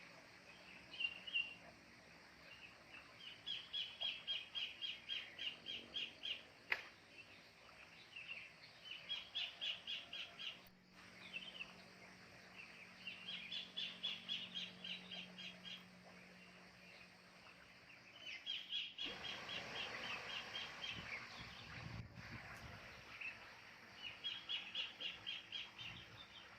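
Kingfisher calling: a fast, even rattle of sharp notes, about eight a second, repeated in bouts of two to three seconds, six times over.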